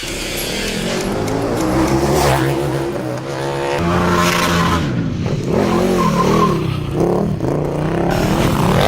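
KTM 1290 Super Duke R EVO's V-twin engine revving hard, its pitch climbing and dropping again and again as the bike is ridden and throttled through stunts.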